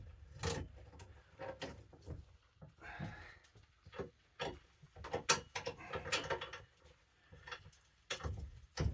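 Metal hand tools clicking, knocking and scraping against the ice auger's drill bit as a stuck, heat-loosened part is worked on. There are irregular sharp knocks throughout, with short scraping rattles about three seconds and six seconds in.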